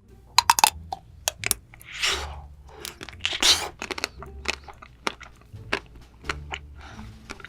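Close-miked eating of chocolate: sharp crunching bites, the loudest a quick cluster in the first second and a half, then chewing with scattered smaller crunches. Two longer rasping noises come about two and three and a half seconds in.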